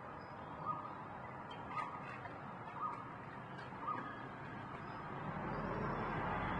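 A bird calling, short single calls repeated about once a second over a steady background hiss. From about five seconds in, a louder rushing noise with a low rumble builds up.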